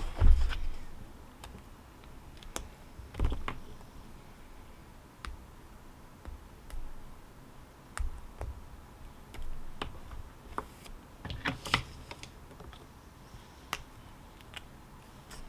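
Sparse, irregular keystrokes on a computer keyboard, a click every second or so with small clusters, and a couple of soft thumps, one just after the start and one about three seconds in.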